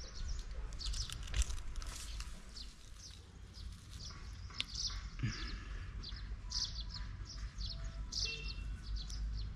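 Small birds chirping and calling, many short repeated chirps throughout, over a steady low rumble.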